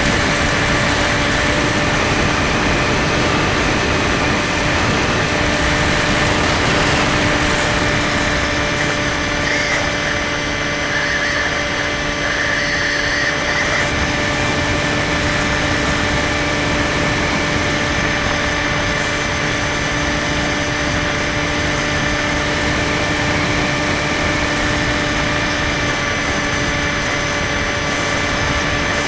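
Skywalker 1680 RC plane's electric motor and propeller running at a steady, even pitch, with a constant rushing noise of air over it.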